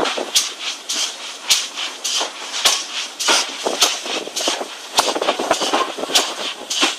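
Train in motion: a steady rushing noise with irregular sharp clicks and knocks, two or three a second, from the wheels and carriage running over the track.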